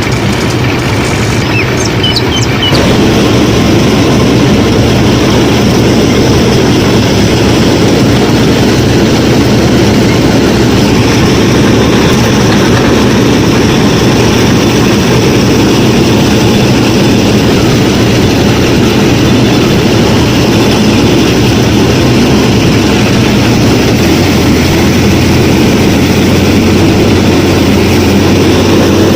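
Motor of a DIY mini combine harvester running steadily under load, a dense mechanical drone that gets louder about three seconds in. Birds chirp in the first couple of seconds.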